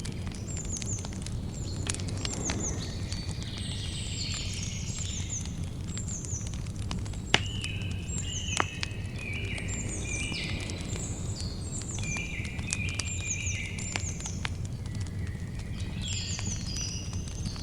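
Campfire crackling, with scattered sharp pops over a steady low rumble; the strongest pop comes about seven seconds in. Birds sing throughout in repeated short, downward-sweeping chirps and high stepped notes.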